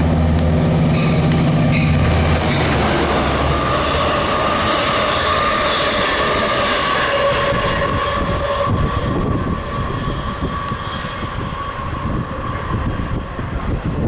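Long Island Rail Road passenger train running through a station at speed without stopping. A low motor hum fades in the first couple of seconds and gives way to a steady whine with rapid wheel clatter over the rail joints, and the sound dies away near the end as the train passes.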